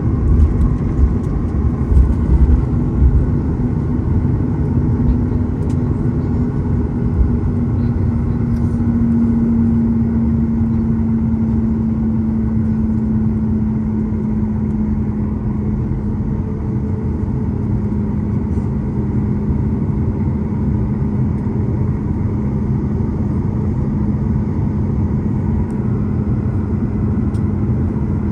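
Boeing 737 MAX 8's CFM LEAP-1B engines running, heard from inside the cabin: a steady droning hum over a low rumble, with a few low bumps in the first few seconds.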